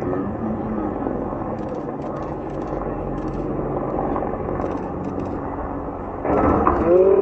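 Helicopter running steadily, a dense noise with a low steady hum. About six seconds in, people's voices cut in loudly over it.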